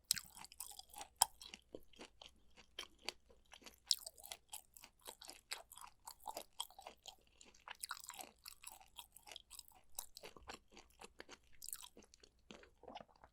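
Close-miked chewing of food, with a dense run of small crisp crunches and wet clicks, several a second.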